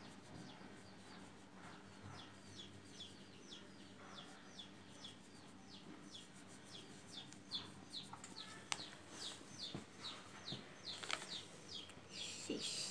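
A small bird chirping over and over, faint: short, quick falling chirps at about two a second that go on throughout. A couple of sharp clicks land in the second half.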